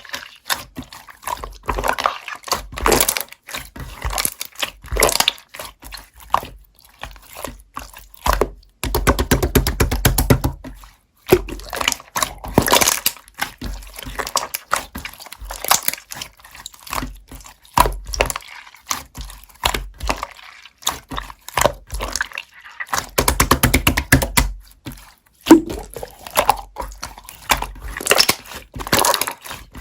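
Hands squishing and stretching slime, making irregular bursts of sticky clicks, pops and crackles.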